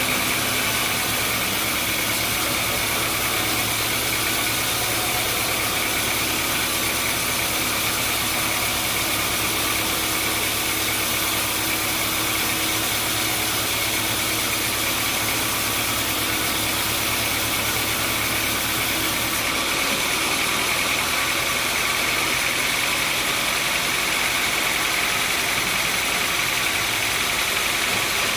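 Sawmill machinery running steadily with a loud, even mechanical noise. About two-thirds of the way through, its low hum drops away and the sound changes.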